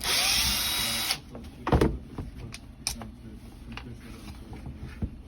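Electric screwdriver spinning for about a second, backing out a screw of the angle grinder's rear cover, then a sharp knock and a few light clicks.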